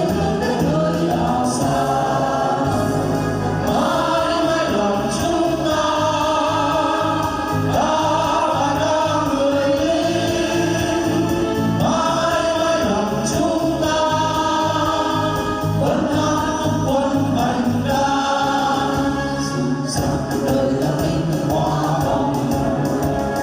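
A group of voices singing together over an accompaniment with a steady, regular bass beat.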